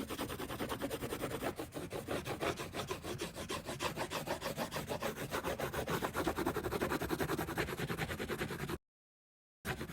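Coloring on paper: a pencil or marker rubbing in quick back-and-forth strokes, several a second. The sound drops out completely for under a second near the end.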